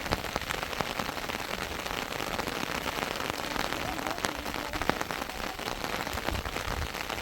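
Heavy rain falling steadily, with many sharp individual drop hits ticking through the steady hiss.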